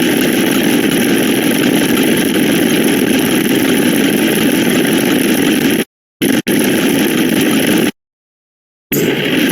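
Steady rough, engine-like noise used as a sound effect, cut off abruptly to dead silence about six seconds in, back briefly, silent again about eight seconds in, then resuming near the end.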